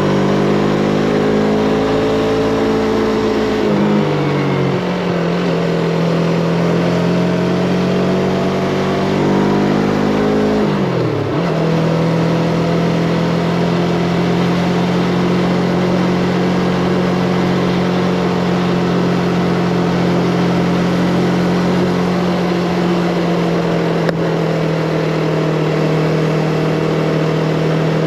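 Yamaha MT-25's parallel-twin engine running under way, heard from on the bike over a steady rush of wind and road noise. The revs dip about four seconds in, climb and then drop sharply about eleven seconds in, and then hold steady for the rest.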